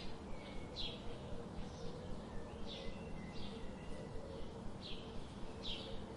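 Birds chirping: short, quick downward chirps repeated about once every second, over a steady low background hiss.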